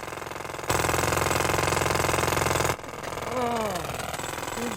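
Steady engine-like mechanical hum. It grows much louder for about two seconds, then drops back to a lower level, and a few short falling pitch glides follow near the end.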